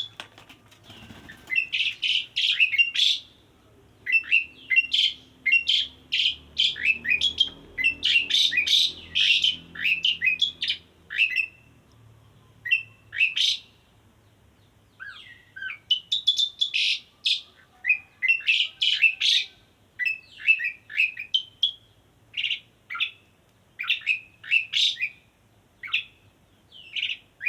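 Male Asian pied starling (jalak suren) singing in loud, repeated phrases of quick chirping and whistled notes, with short pauses between phrases. This is the male's call to a female.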